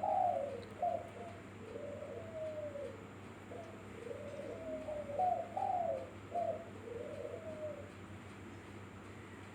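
A bird cooing over and over: a run of low, soft coos that each rise and fall, over a steady low hum.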